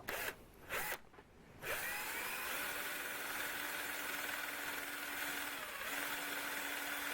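Electric drill motor spinning up about two seconds in and then running steadily, spot-drilling the cast cross slide with a stepped drill. Two short knocks come before it starts.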